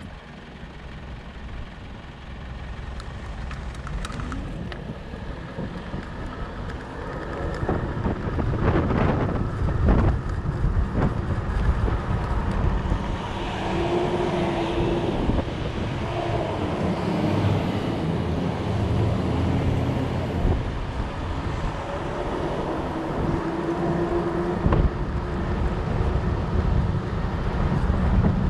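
Riding noise from a fat bike on the move: wind buffeting the microphone over the rumble and hum of the fat tyres, growing louder as the speed picks up in the first several seconds.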